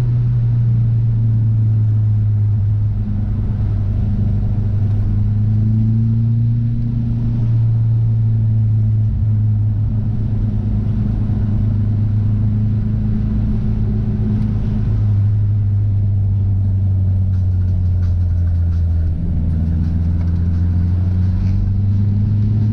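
Car engine drone with road noise at a steady cruise. The drone drops in pitch about two-thirds of the way through, dips briefly, then rises again near the end.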